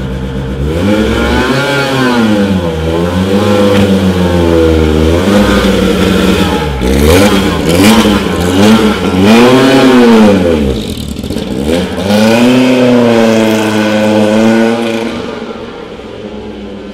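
Lancia 037 rally car's engine being revved, its pitch rising and falling over and over in a series of blips. It is loudest about halfway through and fades near the end.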